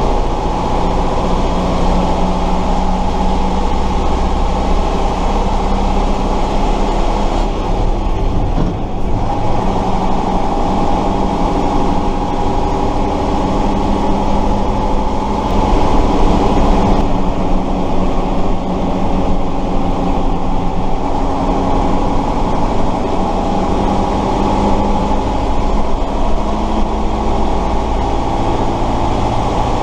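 Tatra 138 fire truck's air-cooled V8 diesel running steadily while the truck is driven. The engine eases off briefly about eight seconds in and picks up again, pulling a little harder around the middle.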